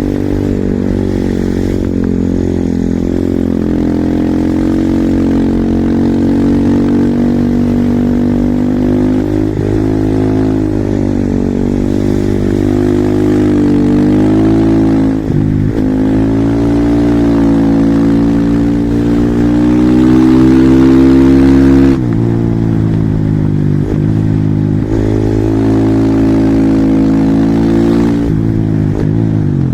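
Husqvarna SMR 450 supermoto's single-cylinder four-stroke engine pulling hard under load, revs rising and falling with the throttle. Several sudden drops in revs come from gear changes or throttle lifts, one a little past halfway and a few more in the last third.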